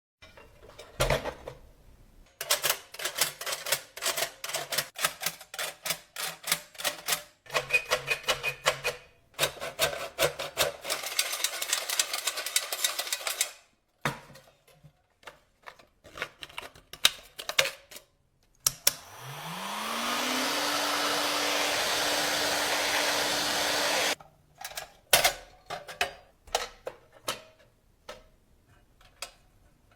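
Vintage mechanical cash register's keys and mechanism clacking in rapid runs of sharp clicks. About two-thirds of the way in, an electric power tool spins up with a rising whine, runs steadily with a loud hiss for about five seconds and then cuts off suddenly.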